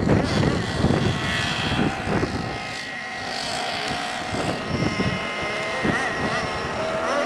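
Small nitro engines of radio-controlled race cars running at high revs with a high-pitched buzz, the pitch gliding up and down as the cars speed up and slow.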